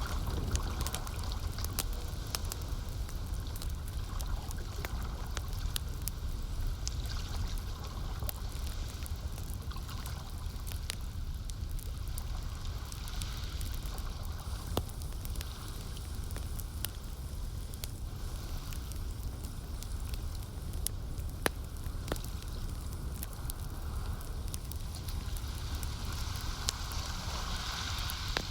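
Campfire crackling, with frequent sharp pops scattered irregularly over a steady low rumble, and lake water lapping and trickling underneath.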